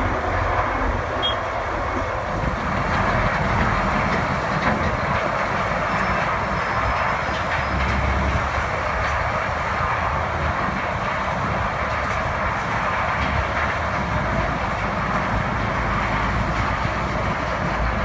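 Heavy earth-moving equipment working on sand: a steady mechanical rumble and clatter with no breaks.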